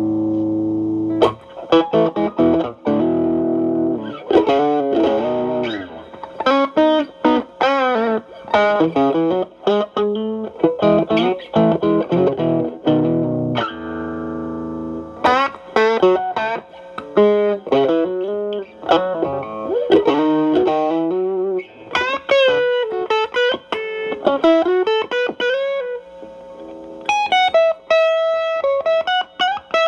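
Stratocaster electric guitar through an Xotic AC Plus overdrive pedal with both channels stacked (Channel A boosting a low-gain Channel B) into a Marshall Valvestate amp, giving a mildly overdriven tone. A held chord opens, then fast single-note runs with string bends, another held chord about halfway, and high sustained notes near the end.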